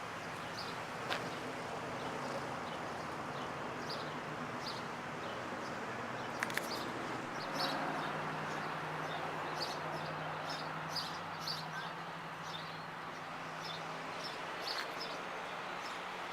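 Outdoor ambience with birds chirping over and over, thickest in the second half, over a steady hiss of background noise. A steady low hum sets in about halfway through.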